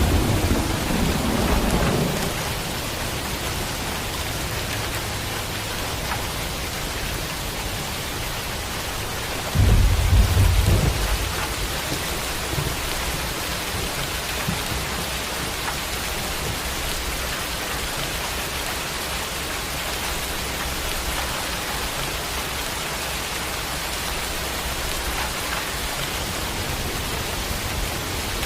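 Steady rain with thunder: a rumble dying away in the first two seconds, and a second, louder clap of thunder rolling about ten seconds in, over the even hiss of the rain.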